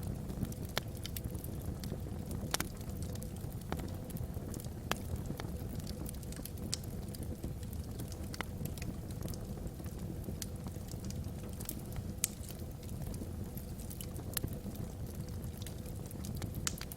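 Wood fire burning in a fireplace: a steady low rumble of the flames with sharp, irregular crackles and pops from the burning logs, one every second or so.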